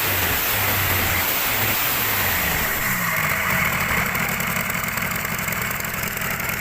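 Freshly overhauled KIA 25 engine running: a slow idle that speeds up about two and a half seconds in, then holds a faster, even beat.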